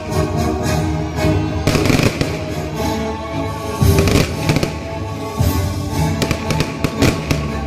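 Fireworks bursting, with repeated sharp bangs and crackling, the strongest about two, four and five and a half seconds in. Music plays steadily underneath.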